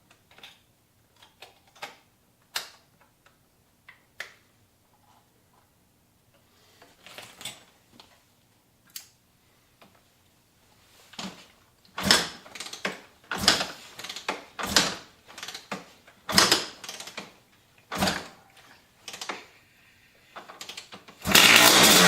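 Scattered clicks and knocks, then a run of heavy kicks on the 1997 Maico 500's kickstarter. About a second before the end its two-stroke single fires and runs loudly.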